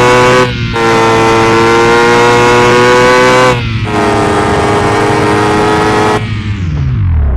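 Yamaha XJ6's inline-four engine running hard at high revs, with two brief cuts where it shifts up, its note a little lower after each. Near the end the revs fall away as the throttle closes.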